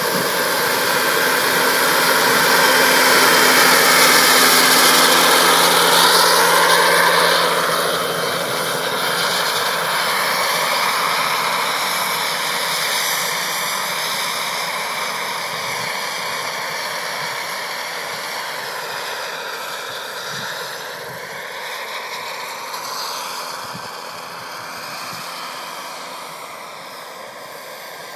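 Radio-controlled model helicopter flying: a steady hissing drone of rotors and motor with sweeping, phasing changes as it moves about. It is loudest a few seconds in, then slowly fades away.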